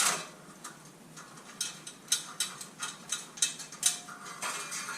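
Irregular metal clinks and clicks of hand tools on the exhaust bolts and hardware as the muffler is unbolted. They are sparse for the first second and a half, then come as a run of sharp clinks with a little metallic ringing near the end.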